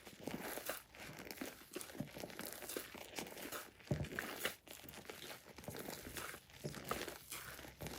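Glossy slime being squished and stretched by hand, making a dense sticky crackling with small irregular pops; one louder pop about four seconds in.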